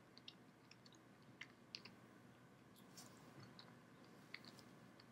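Faint, scattered mouth clicks and smacks of someone chewing a white chocolate candy bar, over quiet room tone.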